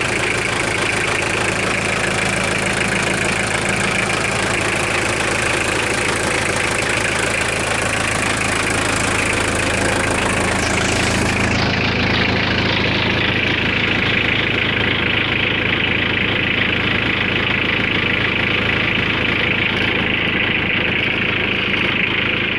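Mitsubishi Canter truck engine idling steadily, with the knock it is being recorded for.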